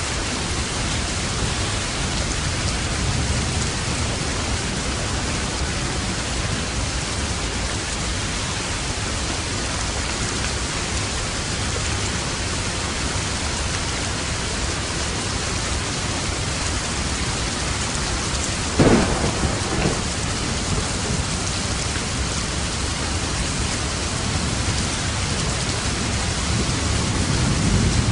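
Steady heavy rain with a low rumble of thunder beneath it. A sharp thunderclap comes about two-thirds of the way through, and another roll of thunder builds near the end.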